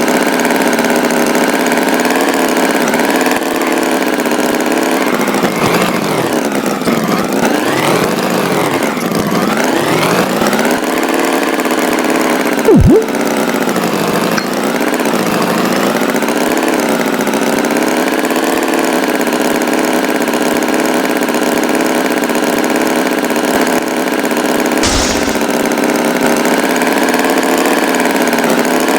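Tractor engine sound effect running steadily, its pitch wavering and dipping twice in swoops about a third of the way in. A sharp knock about 13 seconds in is the loudest moment.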